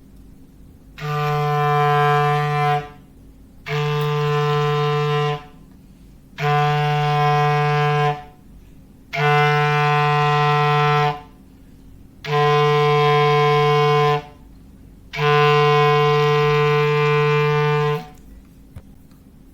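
Foghorn sound effect: six blasts of one low, steady horn-like note, each about two seconds long, with a second or so of quiet between them.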